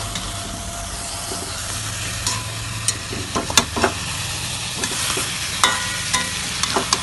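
Egg paturi frying in oil in a kadai, with a steady sizzle. A metal spatula scrapes and clinks against the pan as the patty is cut through and the pieces are turned over, with a few sharp clinks in the second half.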